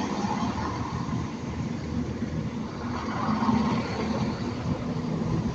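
Train at the platform running steadily, with a low hum that swells about three and a half seconds in.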